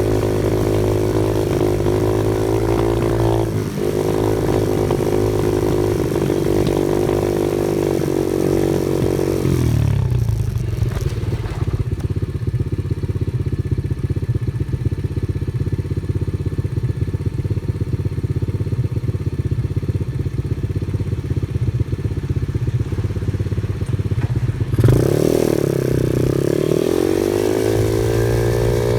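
Off-road vehicle engine running at a steady pace, its pitch falling to a low rumble about ten seconds in. Near the end it revs up sharply and runs steadily again.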